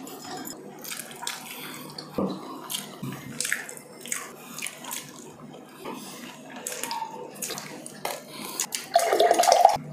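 Close-up eating sounds: chewing and mouth noises with many small clicks as food is picked up and bitten. A short, louder pitched sound comes near the end.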